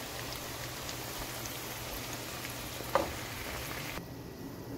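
Guar beans (cluster beans) sizzling steadily in oil in a pan, with one brief squeak about three seconds in. The sizzle cuts out near the end, leaving a fainter hiss.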